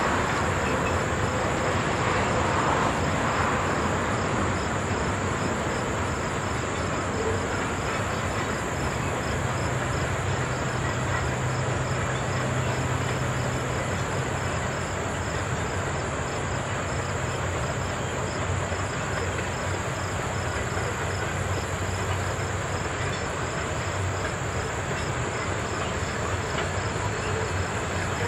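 Loaded coal hopper cars of a long freight train rolling steadily across a stone arch bridge, an even rumble with no horn or distinct clanks.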